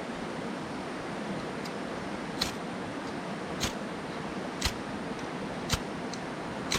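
Sharp clicks about once a second, five times from about two and a half seconds in, as a fire-starter is struck again and again for sparks while trying to light tinder for a campfire, over a steady background hiss.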